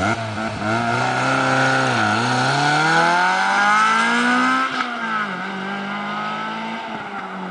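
Lotus Elise's Toyota-built 1.8-litre four-cylinder accelerating hard as the car drives past and away, the revs climbing, dropping at an upshift about two seconds in, climbing again, then dropping at a second upshift about five seconds in. After the second shift the engine note holds steadier and fades as the car recedes.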